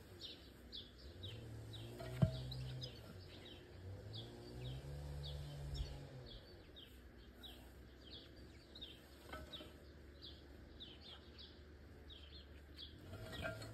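Songbirds chirping busily, with many quick high chirps a second throughout, and a single sharp knock about two seconds in.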